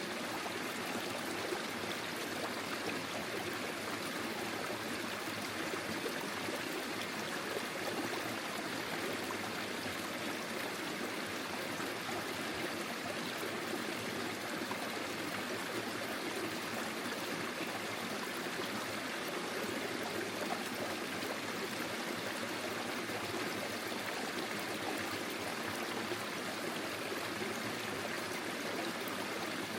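Small forest stream flowing over stones, a steady, even rush of water with a light trickle.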